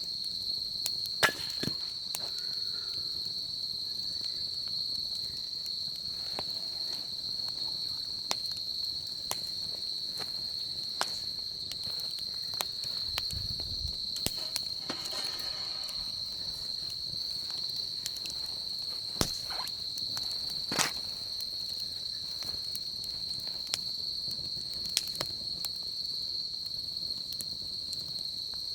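Insects, likely crickets, chirring steadily at one high pitch, over a wood fire that gives sparse sharp crackles and pops, the loudest about a second in and again near 21 seconds.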